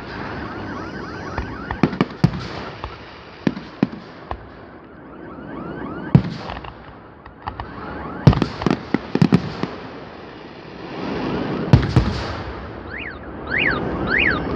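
Fireworks display: a run of bangs from bursting shells at irregular intervals over continuous crackling, with a few rising-and-falling whistles near the end.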